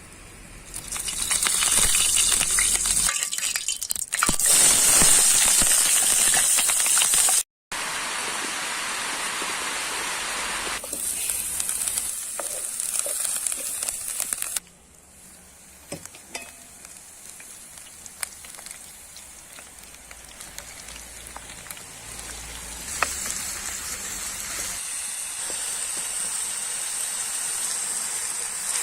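Food sizzling in a frying pan, heard in several cut-together takes that start and stop abruptly. Now and then a utensil clicks or knocks.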